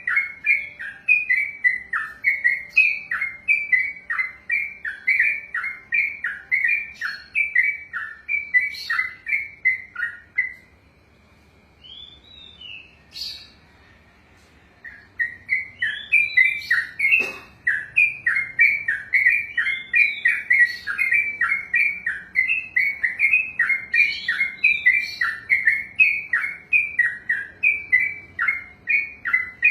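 Yellow-vented bulbul (trucukan) singing a long, rapid run of repeated chirping notes. The run breaks off about ten seconds in, with a few faint notes and a click during a pause of about four seconds, then starts again and carries on.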